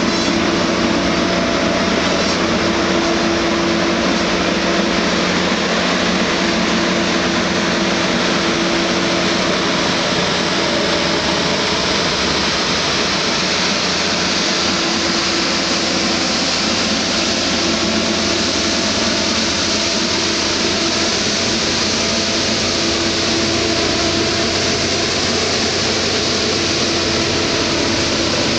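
Canadian Pacific Holiday Train rolling slowly past at low speed, a loud steady rushing noise with a constant low hum underneath.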